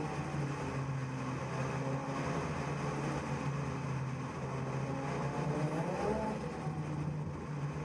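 Car engine running steadily at moderate revs, its note briefly climbing about six seconds in.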